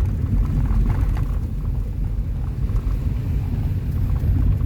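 Car driving along, a steady low rumble of tyres and engine with faint light ticks over it.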